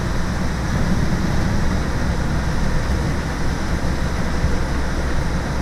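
Steady drone of a school bus's diesel engine and road noise, heard from inside the cab while driving, heaviest in the low end.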